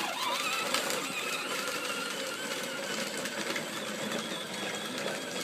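Electric motor and gearbox of a child's battery-powered ride-on John Deere toy tractor running as it drives: a steady whirring whine that cuts in suddenly.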